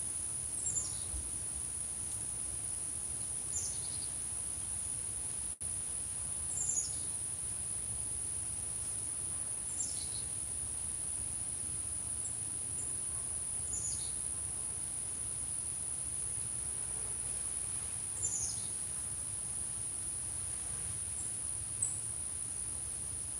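A bird giving short, high, down-slurred call notes, about half a dozen spaced a few seconds apart, over a steady high-pitched drone of crickets.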